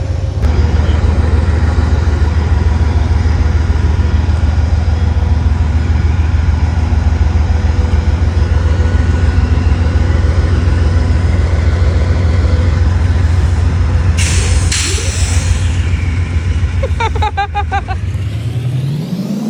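A heavy engine runs with a loud, steady low rumble. About fourteen seconds in there is a short burst of hiss, and near the end a whine starts rising in pitch.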